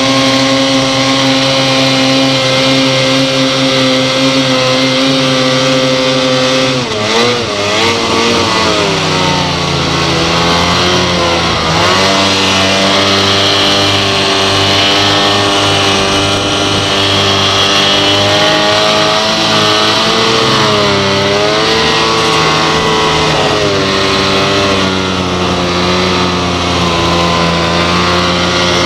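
Two-stroke snowmobile engine running at steady high revs, then wavering and dropping in pitch about seven seconds in, after which it rises and falls repeatedly with the throttle.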